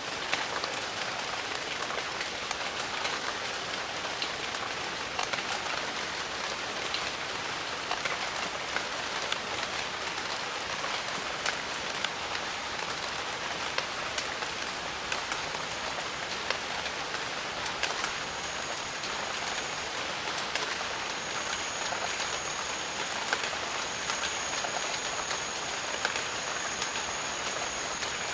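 Steady rain falling in a jungle, with many scattered drops ticking close by. A thin, steady high-pitched whine joins about two-thirds of the way through and holds.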